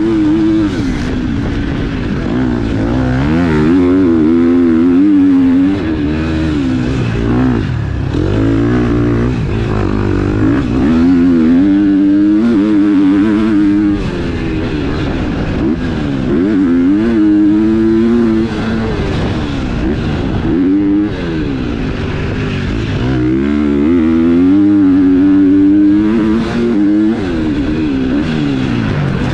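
KTM 250 SX-F motocross bike's single-cylinder four-stroke engine under hard throttle, its pitch climbing and dropping back again and again as the rider accelerates, shifts and rolls off.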